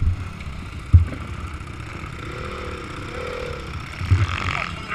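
Motocross bike engine running, its pitch rising and falling as it revs, over a steady background haze, with a few short low thumps near the start, about a second in and near the end.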